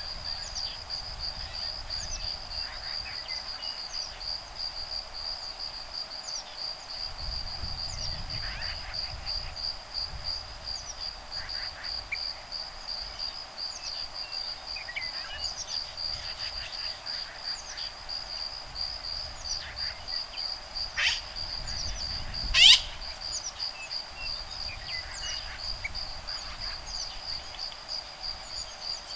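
Insects singing in a steady, pulsing high trill, with birds chirping and calling back and forth over it; two loud, sharp calls stand out about 21 and 23 seconds in. The uploader takes the calls for woodpeckers, young and adults, at nests in the trees. A low rumble of breeze comes and goes.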